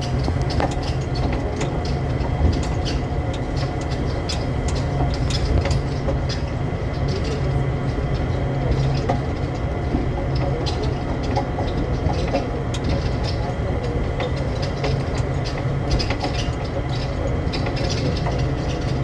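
Train car running at speed, heard from inside the cabin: a steady low rumble with frequent rattles and clicks, and a faint steady high whine.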